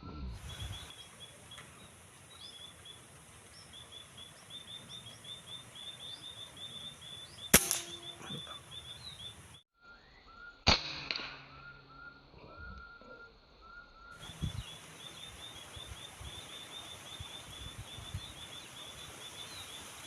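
Two air rifle shots, sharp cracks about three seconds apart, the first about seven and a half seconds in. Between and around them small birds keep up a steady chatter of short, high chirps.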